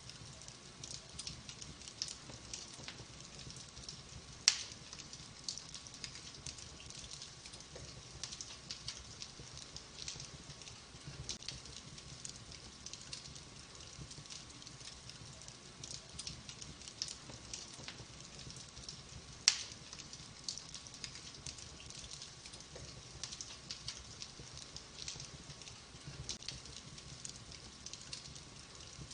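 Wood fire crackling: burning logs give a steady stream of small snaps and pops, with two sharper, much louder pops, one about four and a half seconds in and another about fifteen seconds later.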